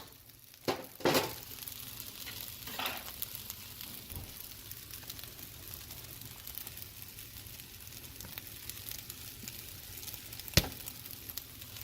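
Fried rice sizzling in a wok while it is stirred, with a few sharp clicks, the loudest one near the end.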